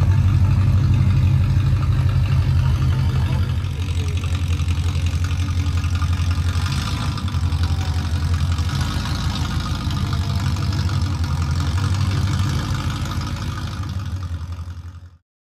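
Car engine idling loudly and steadily with a fast, even pulse, cut off abruptly near the end.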